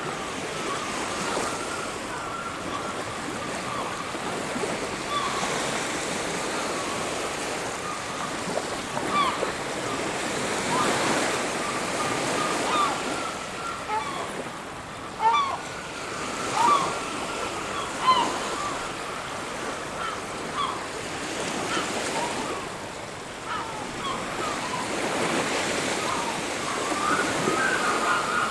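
Sea surf washing on a beach in slow swells, with many short bird calls and chirps over it and a rapid chattering run of calls near the end.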